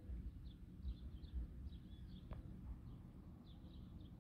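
Faint, short bird chirps, a few scattered notes at a time, over a low rumble, with a single sharp click a little over two seconds in.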